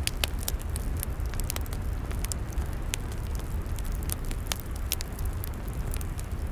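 Log fire crackling: frequent sharp, irregular pops and snaps over a steady low rumble.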